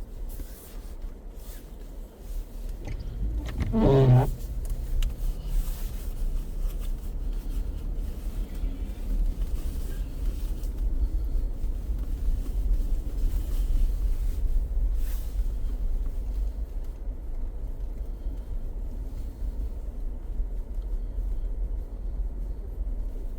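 Steady low rumble of a car driving, with a brief rising pitched sound about four seconds in.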